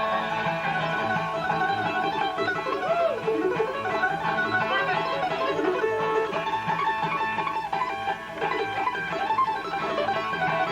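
Bluegrass band playing an instrumental break between sung verses: acoustic guitar, mandolin, banjo and upright bass, with the bass keeping a steady beat.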